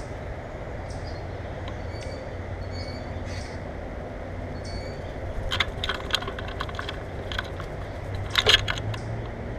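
Birds at a feeder making sharp clicking and tapping sounds in two quick clusters, the second a little over halfway and the last near the end, over a steady low background rumble, with a few faint short high chirps in the first half.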